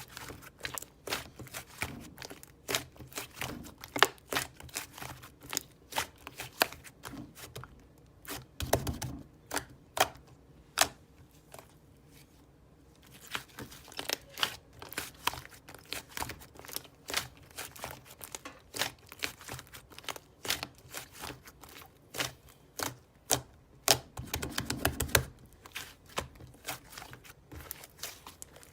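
Slime being squished and pressed by hand, making irregular sharp clicks and pops several times a second. There is a short lull about halfway through and a denser squelching stretch near the end.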